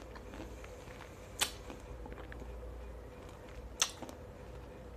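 A person eating fruit close to a clip-on microphone: quiet chewing with two sharp clicks, about a second and a half in and again about two and a half seconds later.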